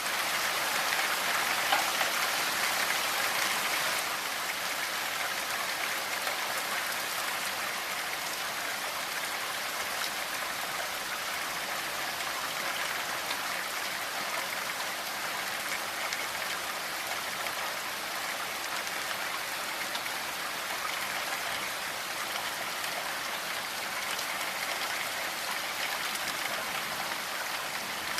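Steady rainfall, an even hiss and patter of drops, a little heavier in the first few seconds.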